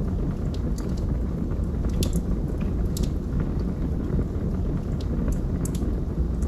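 Fire burning in a fireplace, crackling with scattered sharp pops over a steady low rumble.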